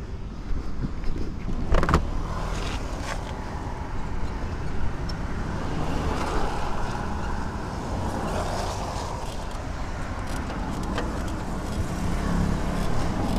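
Yamaha RX-King's single-cylinder two-stroke engine running at low revs through an aftermarket exhaust, with a few sharp knocks and clatters about two to three seconds in.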